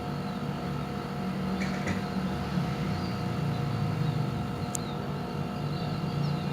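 Steady low mechanical rumble with a few steady hum tones, and faint, high, scattered chirps from a large flock of small birds roosting in a longan tree. A single sharp click comes near the end.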